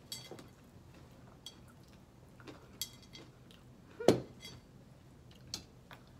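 Eating sounds close to the microphone: scattered sharp clicks and clinks of cutlery against dishes while picking up food, with one louder knock about four seconds in.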